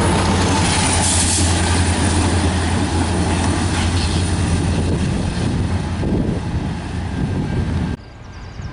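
Train passing close by: a steady rumble of wheels on rail with a low hum, slowly easing off, then cut off abruptly near the end.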